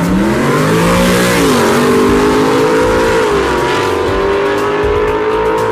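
Two street cars, a Ford Mustang and a Dodge Challenger, accelerating hard from the line down a drag strip. The engine note climbs in pitch and drops sharply twice at the gear changes.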